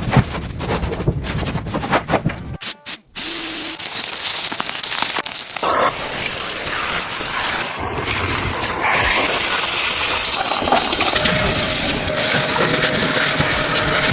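Steady hiss of water spraying at a car wash. It follows about three seconds of knocking and rumbling that break off suddenly.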